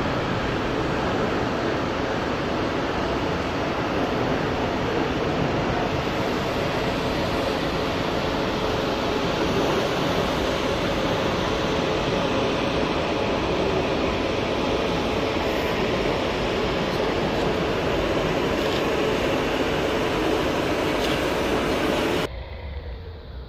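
Electric locomotive, a DB class 147, hauling n-coaches slowly through the station: a steady rolling train noise with a faint steady hum. It cuts off abruptly near the end.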